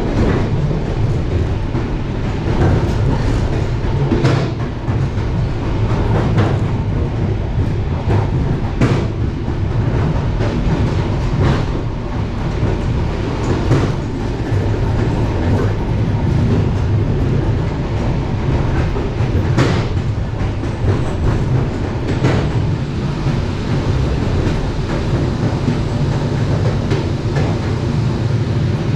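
Passenger train running along the rails, heard from inside the car: a steady low rumble with the wheels clicking sharply every few seconds.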